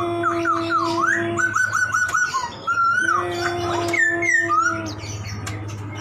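A poksay (laughingthrush) sings a busy run of varied whistled notes that slide up and down. Beneath the whistles, a steady low note is held twice, for a second or two each time, over a constant low hum.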